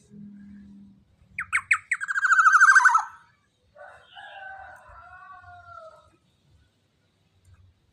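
Young black-naped oriole calling: a harsh, rapidly pulsing call that builds to its loudest about two seconds in. It is followed by a softer call of drawn-out notes falling slightly in pitch.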